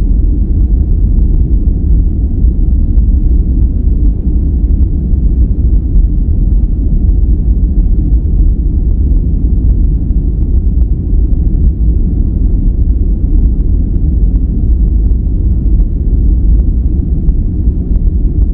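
Steady, unchanging noise track for sleep or relaxation, deep in tone with its weight in the bass and little treble, closer to brown noise than to hissy white noise.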